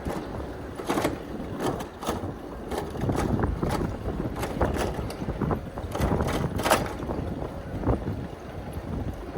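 Wind rumbling on the microphone of a moving bicycle, with many irregular clattering knocks through it, like the bike rattling over rough pavement.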